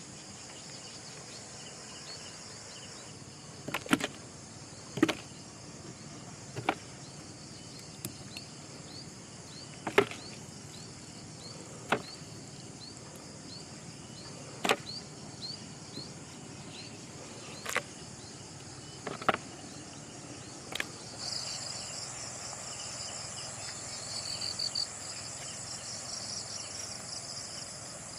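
Insects chirping steadily, with a louder, denser insect trill coming in about three quarters of the way through. Around ten sharp clicks or knocks, irregularly spaced a second or two apart, stand out above it and are the loudest sounds.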